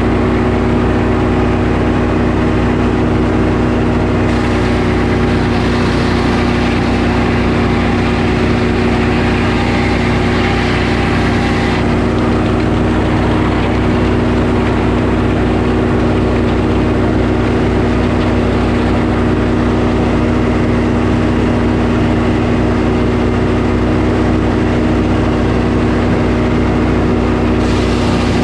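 Sawmill engine running steadily under load, with an added higher-pitched hiss from about four to twelve seconds in and again near the end.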